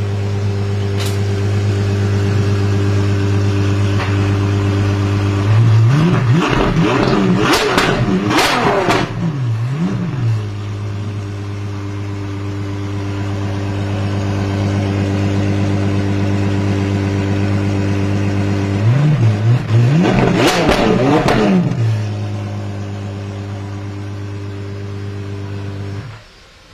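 Apollo Intensa Emozione's V12 engine idling steadily, then revved in a run of quick blips about six seconds in and again about twenty seconds in, dropping back to idle after each run.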